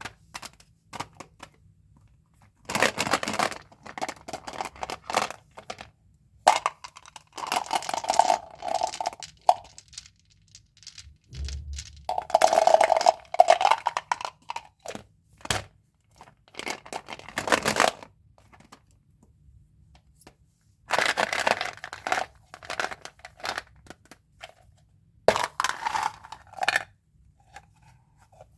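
Plastic and paper gum and candy wrappers crinkling and tearing as packs are opened, in repeated bouts of a second or two with short pauses between.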